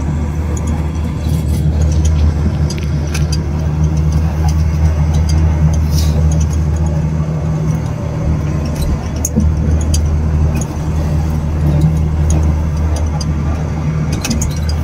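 Blue Line Park Sky Capsule rail pod running along its elevated track, heard from inside the cabin as a steady low hum with a few faint light clicks and rattles.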